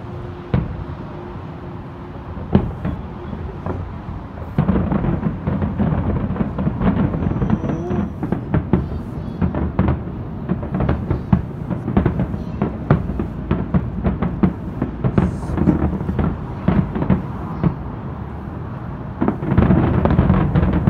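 Aerial firework shells bursting in a fast run of bangs, booms and crackles. The bursts come sparsely at first, thicken about four seconds in, and peak in a dense barrage near the end.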